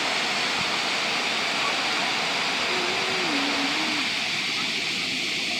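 Steady rushing roar of a waterfall, an even wash of water noise at a constant level.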